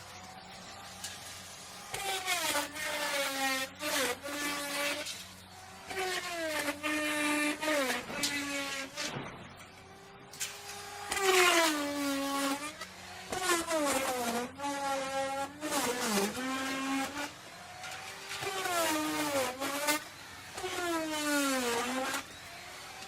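Electric wood router running at high speed while cutting wood. Its whine sags in pitch each time the bit bites into the wood and climbs back as it frees, over and over in passes of a second or two, with short lulls between some of them.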